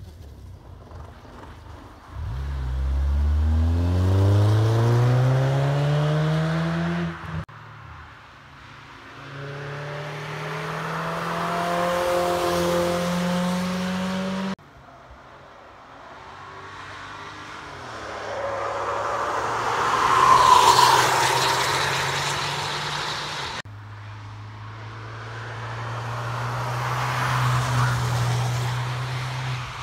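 Four cars passing one after another at speed on a wet circuit, each heard as a separate clip that starts and ends abruptly. The first accelerates hard with its engine note climbing steeply. The later ones hold a steadier note as they pass.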